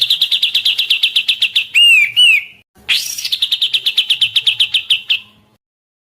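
A songbird singing: a fast, even trill of rapid repeated notes, then two short arching whistles, then the trill again, which stops about five seconds in.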